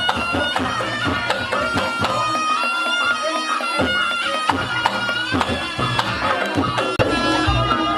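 Reog Ponorogo ensemble music: a shrill slompret (double-reed shawm) playing a held, wavering melody over drums and gong-chime strokes.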